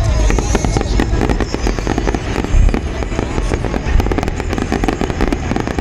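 Aerial fireworks bursting in quick succession: a dense run of crackling reports and bangs, several a second, over a low rumble, with a louder bang about two and a half seconds in.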